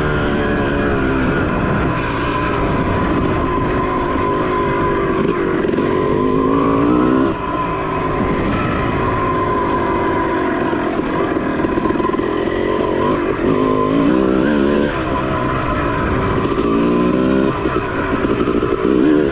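Suzuki dirt bike engine running under way on a trail, the revs climbing and dropping several times as the throttle is opened and closed.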